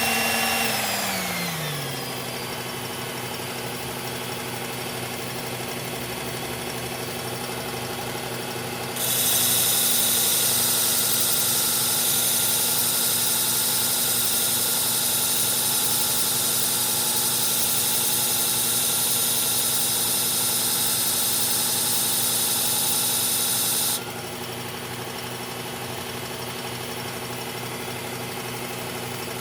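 Electric knife sharpener motor running steadily, its pitch dropping over the first two seconds. From about nine seconds in to about twenty-four seconds a knife blade grinds against the abrasive with a loud, high hiss, then the motor runs on alone. The blade is being sharpened on its second side after a burr was raised on the first.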